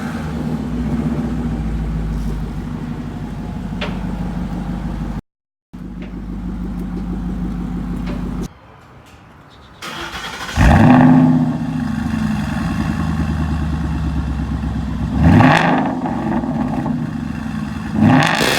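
2014 Ford Mustang GT's 5.0 V8 idling through its exhaust, blipped to a short rev about ten seconds in and twice more near the end. The sound breaks off briefly twice.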